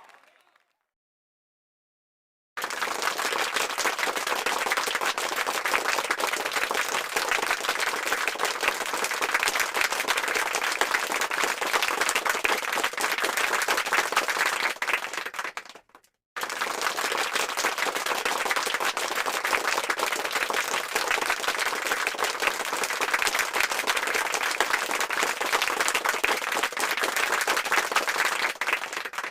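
Crowd applause: many hands clapping densely, with no cheering voices. It starts sharply after about two seconds of silence, stops briefly about sixteen seconds in, then starts again at once.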